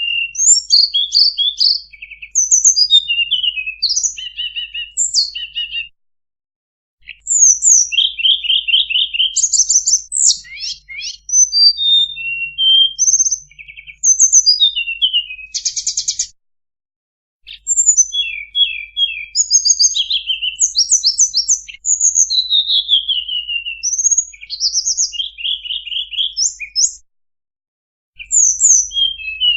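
Recorded song of the tledekan bird played as a lure call: rapid, varied high chirps, trills and short whistled notes in runs of several seconds, broken by brief silent pauses three times.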